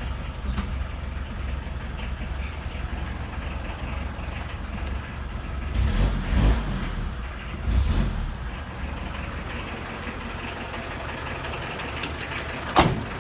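Mitsubishi 4D56 four-cylinder diesel engine running at idle, swelling briefly a few times around six to eight seconds in; it now runs after a replaced fuel shut-off valve cured its hard starting. A single sharp click sounds near the end.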